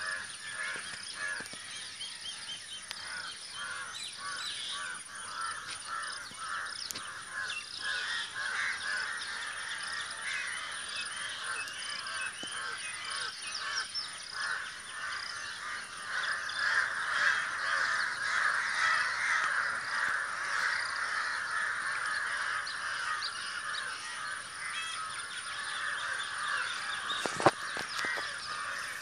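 A flock of birds calling all at once in a dense, continuous chorus of short harsh calls, busier from about halfway through. A single sharp knock comes near the end.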